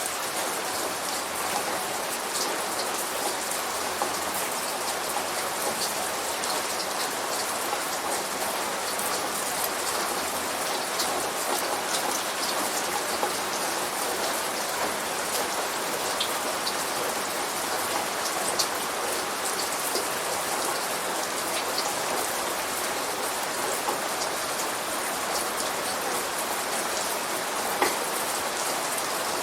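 Steady light rain falling, with individual drops ticking sharply now and then and one louder drip near the end.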